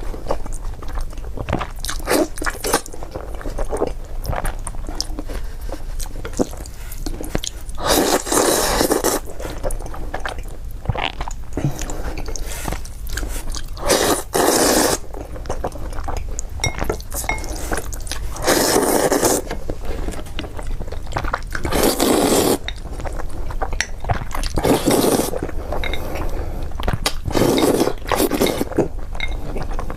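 A person eating close to the microphone, chewing and biting on boiled eggs and spicy noodles. Louder noisy bursts of about a second come every few seconds over the steady chewing.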